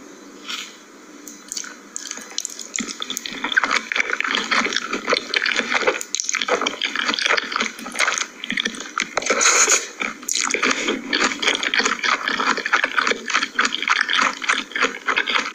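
Close-miked wet, crackly eating sounds: food being chewed and squished in a rapid stream of sticky clicks, starting a couple of seconds in.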